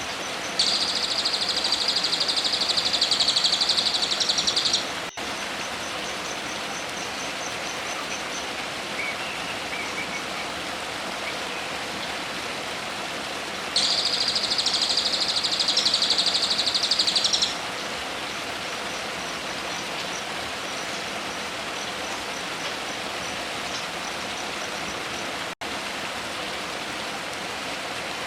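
A songbird's rapid buzzing trill, given twice and held steady for about four seconds each time, over a constant rain-like rushing of water, with faint rows of high ticking between the trills.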